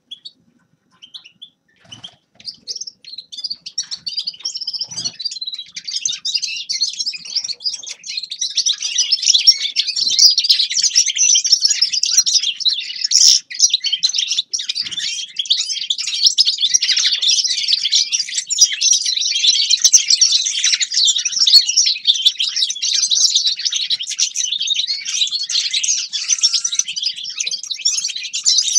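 A finch singing a long, fast twittering song, soft and broken for the first few seconds, then continuous and loud.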